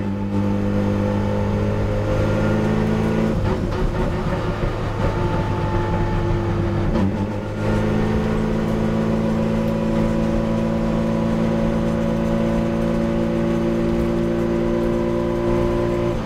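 Race car engine heard from inside the caged cockpit, running at steady moderate revs while cruising at about 60 km/h. The engine note drops out and changes pitch about three and a half seconds in, then dips briefly and comes back at a new pitch about seven seconds in.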